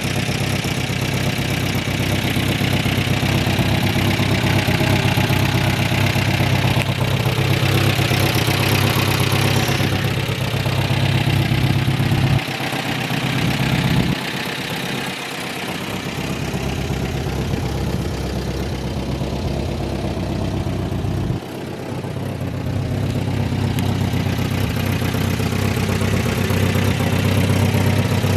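1969 Datsun Roadster's four-cylinder engine idling steadily, fully warmed up. The deep low part of its note drops away for several seconds in the middle and comes back.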